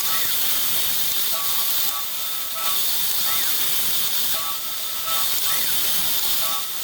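Milling machine with a 5/16-inch end mill taking a slot out to size in a metal block. There is a steady hiss throughout, and a recurring whine of several tones comes about every three seconds.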